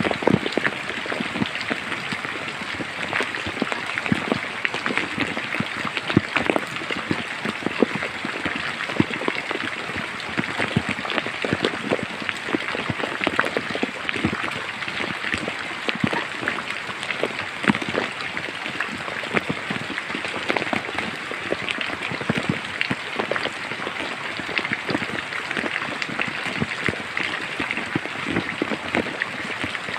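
Rain falling steadily: a continuous hiss with many separate drops pattering close by.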